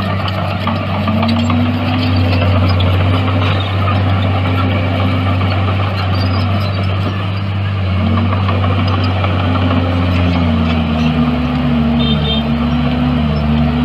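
Heavy diesel earthmoving equipment running steadily, its engine pitch dipping and recovering several times as the load changes.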